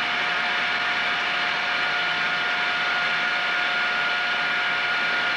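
Cuttermaster end mill sharpener's grinding-wheel spindle motor running steadily at speed, a constant whine over a hiss, with the wheel spinning free and not yet grinding.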